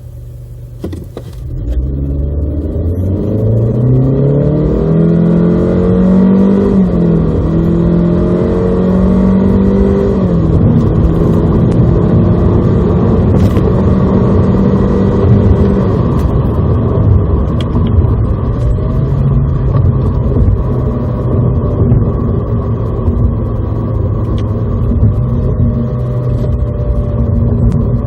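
Honda Civic FK7's 1.5-litre turbocharged inline-four, with a CVT, under full-throttle acceleration. The engine note climbs steeply for the first few seconds, then holds at a high, nearly steady pitch with small dips near 7 and 10 seconds in. From about 16 seconds in it settles to a lower steady drone, with road noise underneath.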